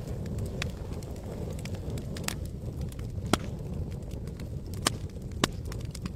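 Campfire crackling: a handful of sharp pops of burning wood over a low, steady rumble of the fire.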